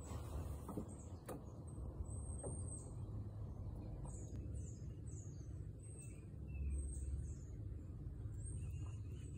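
Faint outdoor ambience: small birds calling in short, high notes that slide downward, repeated every second or so, over a steady low rumble.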